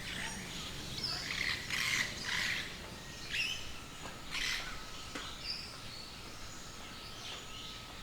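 Birds chirping and calling in an aviary: a run of short chirps in the first half, thinning out later, with a thin steady high note running through the second half.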